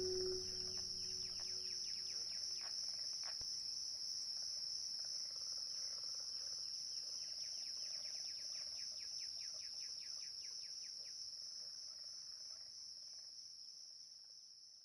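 An insect's continuous high-pitched trill, like a cricket or bush cricket, with rapid short chirps underneath through the middle, fading out toward the end.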